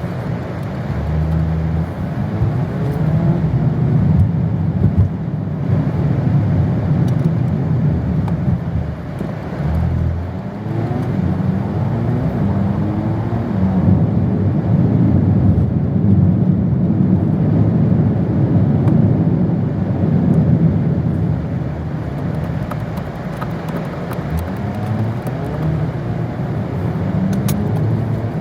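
Car being driven, with a steady low rumble of road and running noise that swells and eases slightly.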